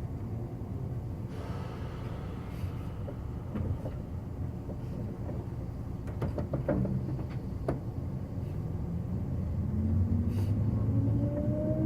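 Inside a JR 185-series electric train: steady rumble of wheels on rail, with a cluster of sharp clicks and knocks about six to eight seconds in. From about ten seconds in, a traction-motor whine sets in and rises in pitch as the train accelerates.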